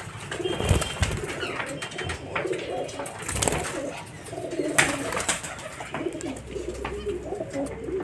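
Caged birds calling: low, wavering cooing calls go on throughout, with short sharp chirps and clicks over them every second or so.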